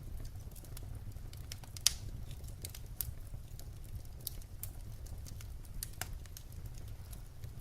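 Wood fire crackling: irregular sharp pops and snaps over a low steady rumble, with one louder pop about two seconds in.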